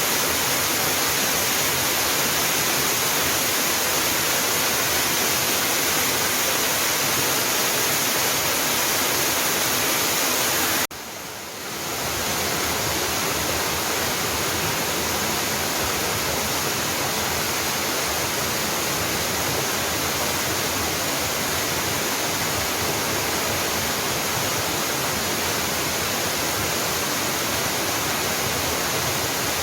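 Jangsan waterfall's water falling and rushing in a steady, loud, even roar. About eleven seconds in, the sound drops briefly and swells back up within a second.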